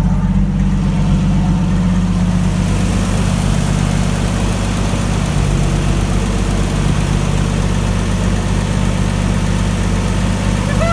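1987 Toyota Land Cruiser FJ60's 4.2-litre 2F inline-six engine idling steadily on its first start after a full rebuild.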